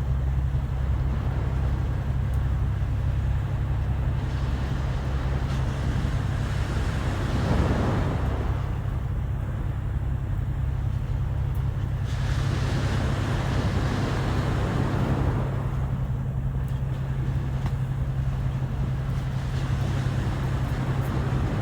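Sea waves washing ashore, swelling and fading every few seconds, over a steady low rumble.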